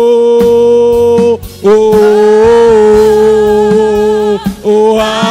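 Live gospel praise music: two long sustained sung notes with a short break between them, over a steady drum beat.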